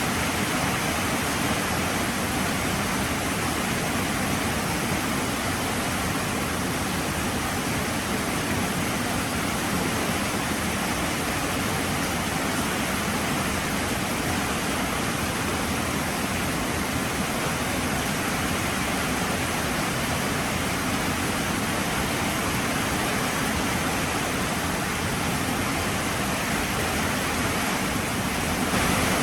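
Heavy rain falling steadily, an even rushing hiss with no distinct drops or other sounds, slightly louder near the end.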